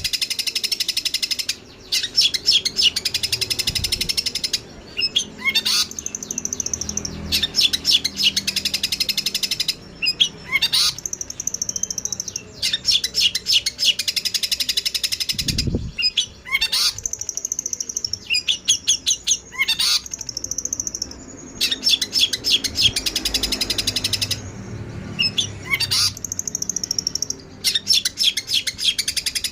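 Songbirds chirping in fast runs of rapid, repeated notes, each run lasting a few seconds with short breaks between. This is bird-training (masteran) material of long-tailed shrike and fighting tree sparrow calls.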